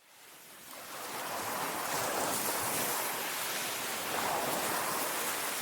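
Sea waves washing on the shore, fading in from silence at the start, then a steady rush that swells about two seconds in and again about four seconds in.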